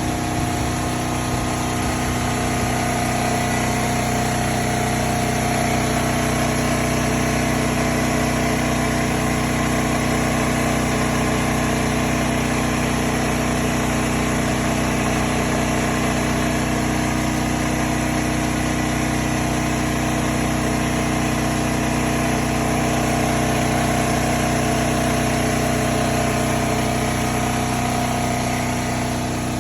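An engine running steadily at idle for the whole time, with an even tone and a faint slow pulsing.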